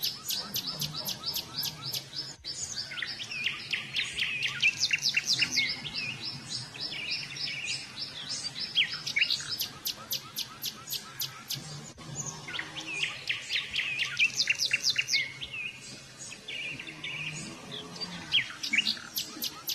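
Several small birds chirping and twittering in dense runs of quick, high, downward-sweeping notes that overlap almost continuously.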